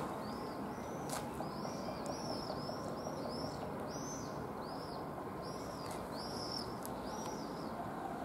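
A small bird chirping over and over, short arched chirps about two a second, which stop shortly before the end, over steady outdoor background noise. There is one light knock about a second in.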